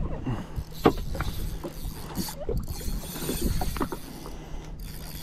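Water lapping and slapping against the hull of a Sea-Doo FishPro jetski, with scattered small knocks and a sharper knock about a second in.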